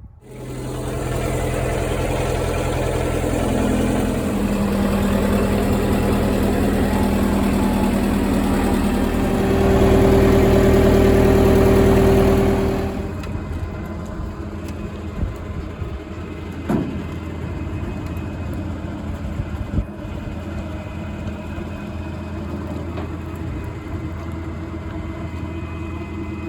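An engine running. It steps up in pitch about four seconds in and is loudest from about nine to thirteen seconds, then drops back to a steady idle.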